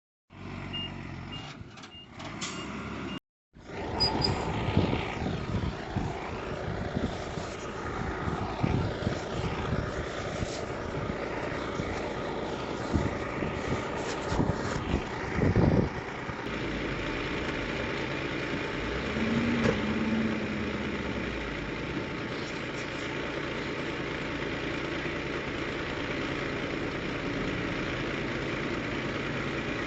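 Diesel engine of heavy earthmoving equipment running steadily, with repeated knocks and clanks over it through the first half. A short row of high beeps comes near the start.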